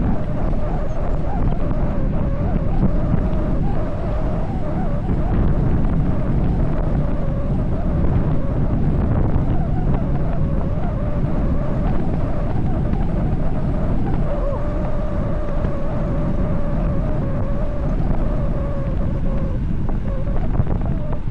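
Wind rushing and buffeting over the microphone of a bicycle descending fast, a steady loud roar with a wavering whistle-like tone riding on it that holds steadiest for several seconds in the second half.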